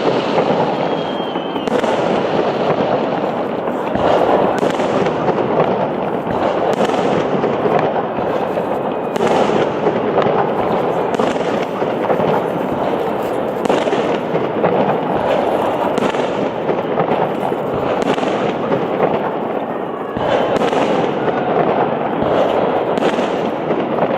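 Fireworks salute going off densely: a continuous din of many shell bursts, with sharp bangs standing out every second or so.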